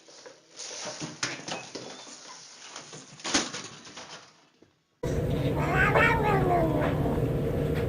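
A cat meowing: one drawn-out meow that rises and then falls in pitch, over a steady low hum. It is preceded by scattered clicks and rustling.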